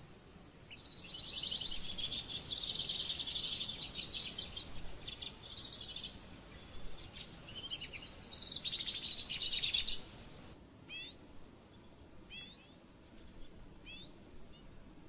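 Small birds chirping, with fast high-pitched trills in two long runs. About ten seconds in, the background changes abruptly, and single short chirps follow, roughly one a second.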